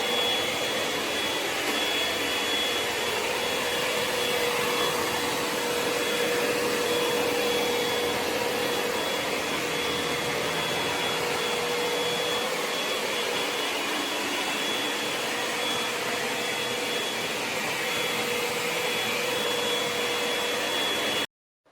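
ECOVACS DEEBOT X9 Pro Omni robot vacuum running its suction fan: a steady rushing air noise with a constant high whine, cutting off suddenly near the end.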